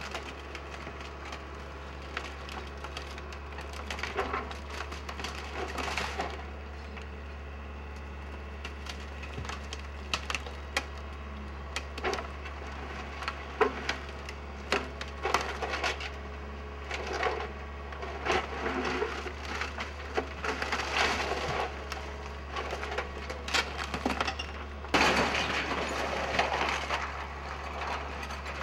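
Wood-frame building being torn down: timber cracking, splintering and crunching in irregular bursts, with the longest and loudest burst about 25 seconds in, over a steady low machine hum.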